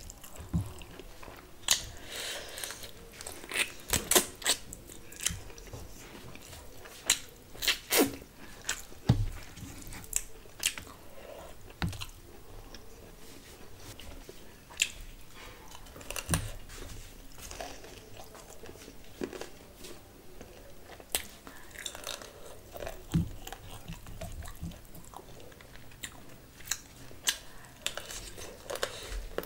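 Close-miked chewing of a mouthful of rice and curry eaten by hand, with wet mouth smacks and irregular sharp crunches.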